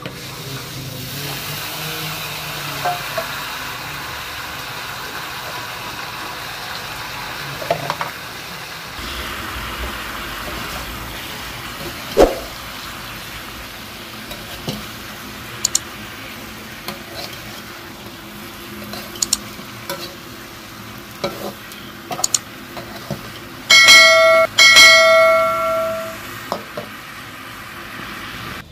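Sliced tomatoes dropped into a hot wok and frying: a steady sizzle, with a metal spatula clicking and scraping against the wok as it stirs. Near the end the spatula knocks the wok twice, loudly, and the metal rings out for a second or two.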